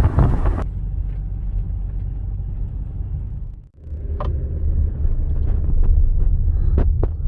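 A low, steady rumble that breaks off briefly just after halfway, with a few sharp clicks near the end. A brighter hiss over it cuts off abruptly about half a second in.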